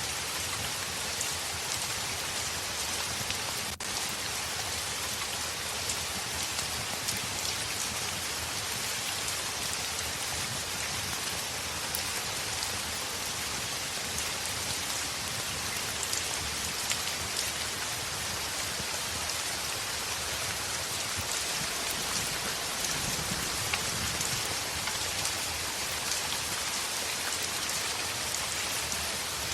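Heavy rain on a window: a steady, dense hiss of rain with many small sharp ticks scattered through it.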